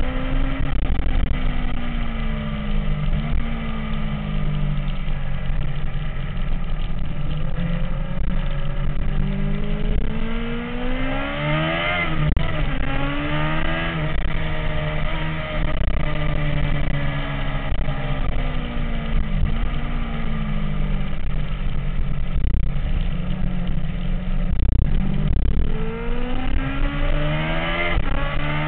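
MV Agusta F4's inline-four engine running, its pitch rising and falling in long sweeps several times over a steady low drone.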